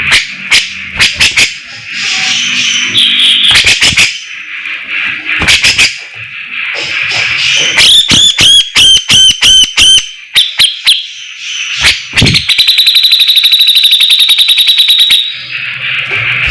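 Recorded song of the songbird called 'fighter' by Indonesian bird keepers, played as a training track: a loud, varied song of chattering phrases and sharp clicks, a run of about eight ringing whistled notes a little past the middle, then a long, fast buzzing trill near the end.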